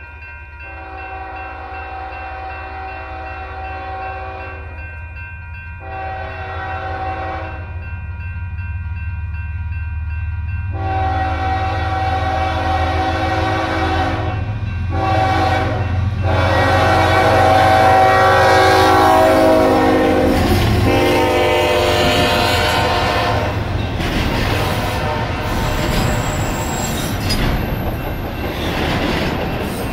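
Union Pacific diesel locomotive horn blowing several blasts for a grade crossing over a growing engine rumble, the last long blast ending about two-thirds of the way in. The locomotives then pass close by, followed by double-stack intermodal cars rolling past with wheel clatter.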